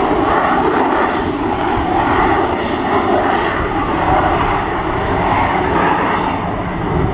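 Harrier jump jet's Rolls-Royce Pegasus engine running loud and steady at high thrust, a dense jet noise that swells and eases slightly.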